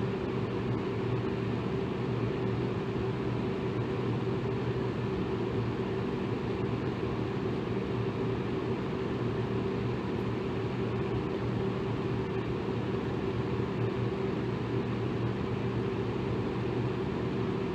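Electric fan running steadily: an even rush of air with a low, constant motor hum.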